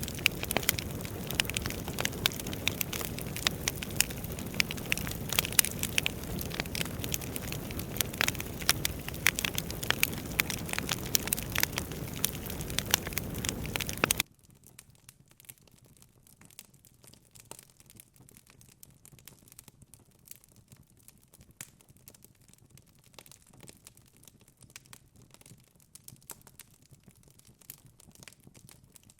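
Wood fire in a fireplace crackling and popping, with many sharp snaps over a low rumble of the flames. About halfway through the sound drops abruptly to much quieter, sparser crackles.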